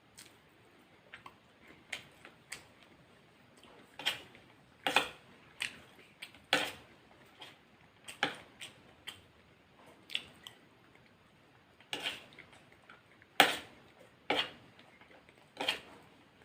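Close-miked eating: an irregular string of crunchy bites and wet chewing clicks, with the loudest crunch about three-quarters of the way through.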